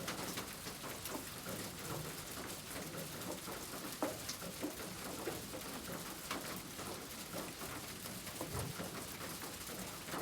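Rain pattering steadily, with scattered louder drops.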